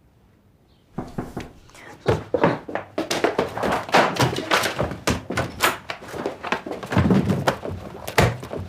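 A busy run of knocks, thuds and clatters as things on a desk are rummaged through and moved about, starting about a second in.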